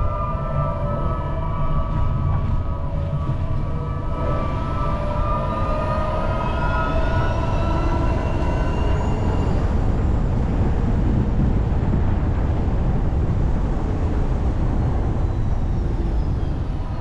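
Car cabin road noise while driving: a steady low rumble, with several steady high tones over it that fade out in the middle, alongside faint tones slowly rising and later falling.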